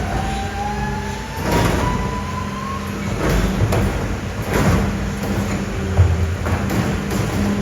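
Mercedes-Benz Arocs garbage truck running steadily. A whine rises slowly in pitch over the first few seconds, three short hisses come through the middle, and a knock sounds near the end.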